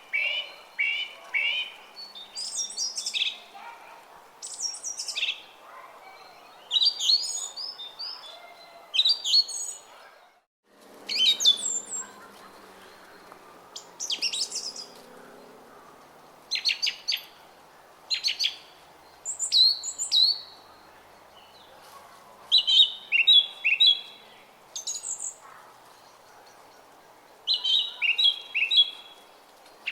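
Songbirds singing short, repeated chirping phrases every second or two over the faint steady babble of a brook. The sound cuts out briefly about ten seconds in.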